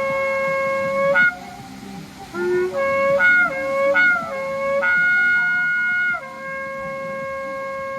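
Shofar (ram's-horn trumpet) blown: a long steady low note breaks off about a second in, followed by a run of short broken notes jumping between pitches, a higher held note, and then a return to the long low note that carries on to the end.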